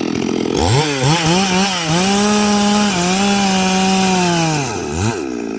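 Stihl 382 two-stroke chainsaw revved up about half a second in, held at high speed with a wavering, then steady pitch, and let back down near the end with one short blip of the throttle.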